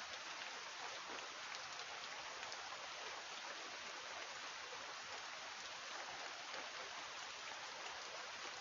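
Rain falling steadily: a soft, even hiss with scattered faint ticks of drops.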